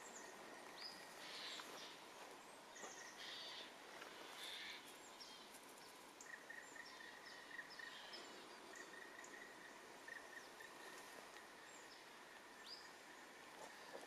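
Faint forest birdsong: several small birds chirping and calling here and there, with a thin high trill through the middle, over a steady soft hiss of woodland air.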